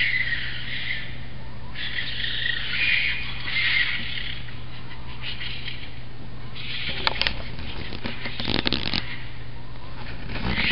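Red foxes screaming: bouts of harsh, high screeching, with a short burst of crackling about two-thirds of the way through, over a steady low hum.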